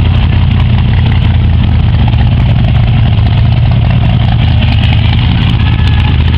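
Hot rod engine idling with a loud, steady low rumble, the car barely creeping along in a slow drag race.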